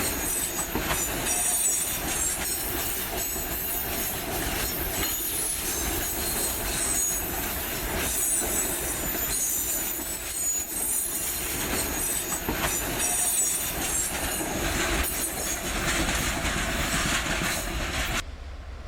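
Freight train wagons rolling past, their steel wheels squealing on the rails with clacks over the rail joints. The sound cuts off suddenly near the end.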